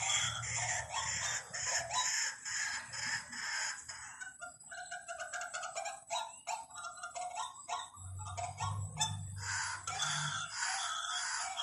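White-breasted waterhen calling in a rapid run of repeated notes, used as a lure call. The notes thin out in the middle and come thick again near the end, with a low hum underneath at the start and about two-thirds through.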